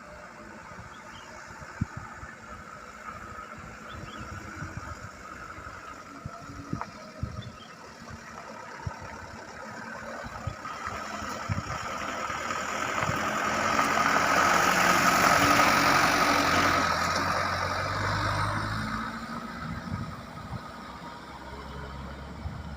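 Truck engine running, growing louder to a peak about two-thirds of the way through and then fading, with sharp knocks scattered through the first half.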